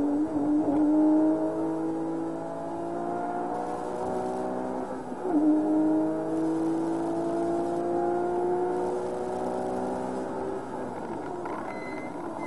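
Porsche 997 GT3 RS flat-six heard from inside the cabin, pulling hard under acceleration with its pitch climbing. About five seconds in there is a quick upshift, then the pitch climbs again through the next gear and steadies near the end.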